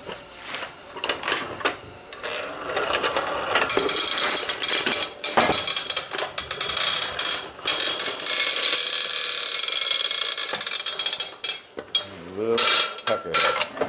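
Metal parts of a forge blower being worked on by hand: clinks and knocks of tools and the fan shaft, with a long stretch of rapid fine clicking and scraping in the middle.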